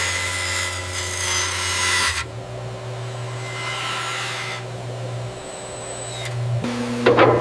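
Machinery running steadily with a low hum and hiss. The sound changes abruptly about two seconds in and again near the end, where a short, sharp burst of noise is the loudest moment.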